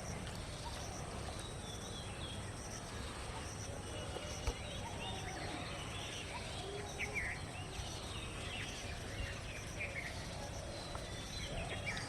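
Outdoor ambience: small birds chirping on and off and insects calling, over a steady low rumble of background noise, with one sharp click about four and a half seconds in.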